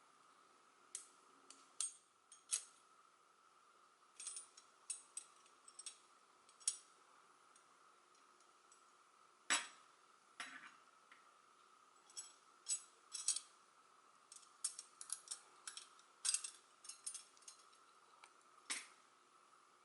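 Metal pieces of a Hanayama Enigma cast puzzle clicking and clinking against each other as they are handled and worked apart. The clicks are irregular, with the loudest about nine and a half seconds in, over a faint steady hum.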